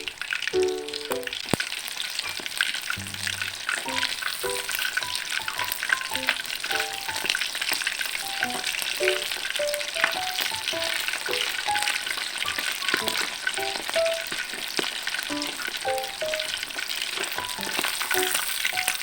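Rambutan chicken dim sum balls deep-frying in hot oil, giving a dense, steady crackle and sizzle. A soft background melody of short single notes plays over it.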